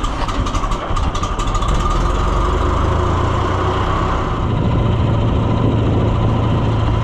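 Carbureted engine idling on choke just after a cold start, uneven for the first second or two and then settling into a steady idle.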